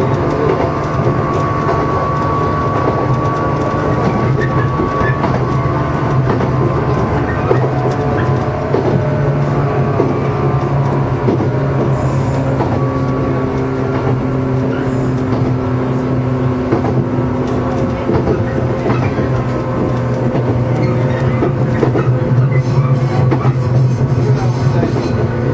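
JR East 115 series electric train running, heard from the cab: a steady hum and rumble of the motors and wheels on the rails, with a few tones that shift in pitch as it goes.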